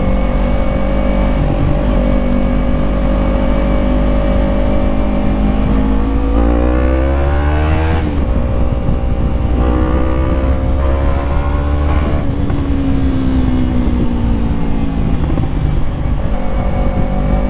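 Yamaha MT-03 parallel-twin motorcycle engine under way, running steadily, then accelerating with its pitch rising about six seconds in. The pitch drops sharply at a gear change, climbs again, then falls slowly as the throttle is eased off.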